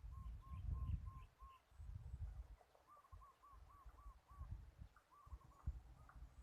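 A bird calling in two runs of short, evenly spaced notes, each rising and falling, with a few higher chirps near the start, over a low rumble that comes and goes.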